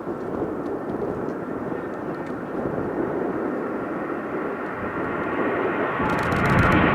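Boeing 757-300 jet engines at takeoff power, a steady rushing roar that grows louder as the jet approaches, with a whining tone building near the end.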